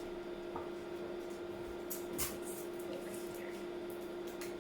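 Steady room hum with a few faint taps and rustles, as a paper sheet is handled and pasted onto a small board.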